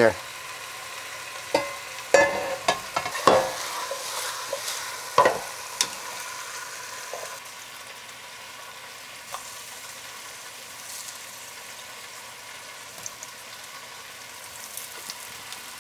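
Oil sizzling steadily as zucchini slices fry in a hot stainless steel skillet and chicken pieces brown in a second pan. There are several sharp clinks and knocks of cookware in the first six seconds.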